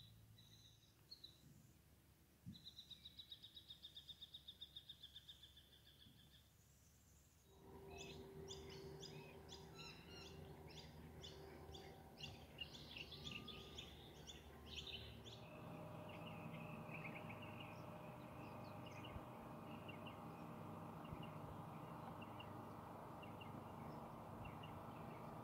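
Faint outdoor ambience with wild birds: a rapid high trill of about seven notes a second, then a quick run of many chirps, then a faint steady hum with scattered chirps over it.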